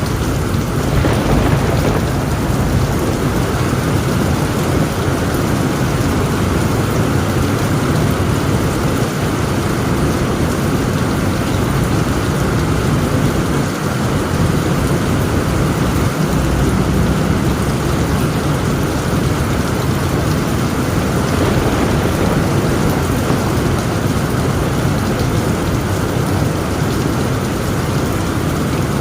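Heavy rain pouring steadily on a tent roof, with a continuous low rumble of thunder underneath.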